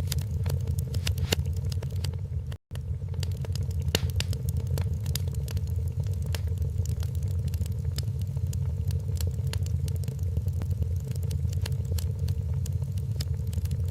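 Wood fire crackling in a fireplace: frequent irregular pops and snaps over a steady low rumble of the burning fire. The sound cuts out for a split second about two and a half seconds in.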